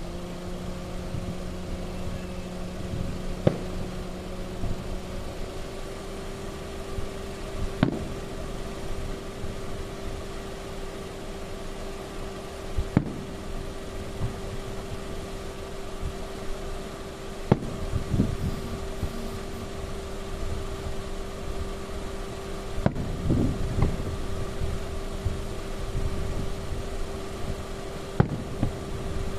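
Aerial fireworks bursting: about seven sharp bangs, unevenly spaced a few seconds apart, some with a short echo. A steady hum runs underneath.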